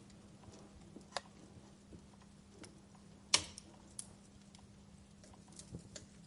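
Wood fire crackling: scattered, irregular snaps and pops, with one sharper, louder pop a little past the middle, over a faint steady low hum.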